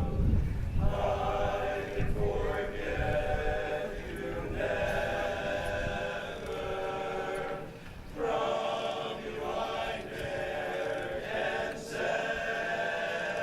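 Barbershop chorus singing a cappella in close four-part harmony, in phrases with short breaths between them. A low rumble sits under the singing at the very start.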